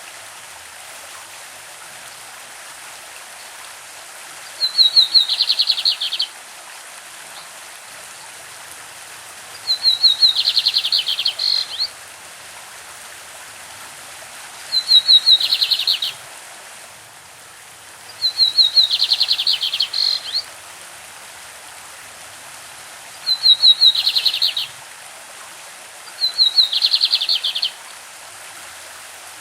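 Lined seedeater (bigodinho) singing its classic song: six phrases a few seconds apart, each opening with a quick stutter of high notes and running into a fast buzzy trill that drops a little in pitch. A stream rushes steadily underneath.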